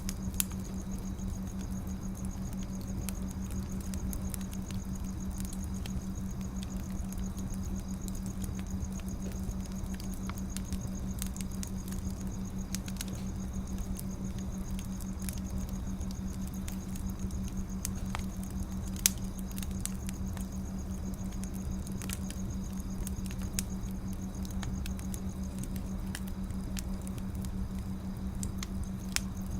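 Wood fire crackling: sparse sharp pops and snaps over a steady low rumble and hum.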